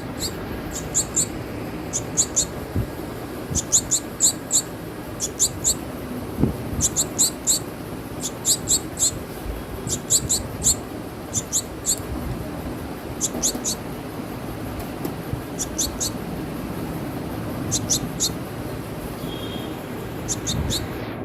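Small bird giving short, high-pitched chirps in quick clusters of two to four, repeated about every second, over steady background noise.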